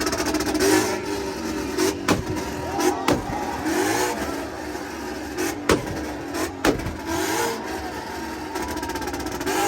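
A car engine running and being revved, with several sharp cracks.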